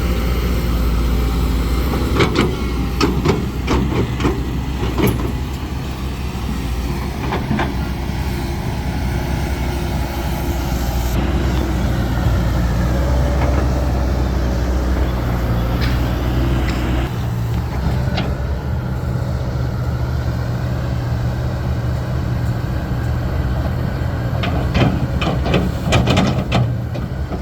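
Heavy diesel earthmoving machinery running under load, with sharp metallic clanks and knocks in clusters a couple of seconds in and again near the end. The engine note shifts about two-thirds of the way through.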